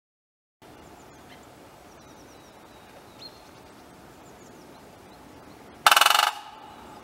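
Great spotted woodpecker drumming once near the end: a single short, very rapid roll of blows lasting about half a second. Before it there are a few faint, high chirps of small birds.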